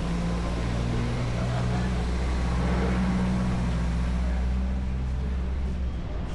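A motor vehicle's engine running: a low, steady hum that swells around the middle and drops away about six seconds in, over street noise.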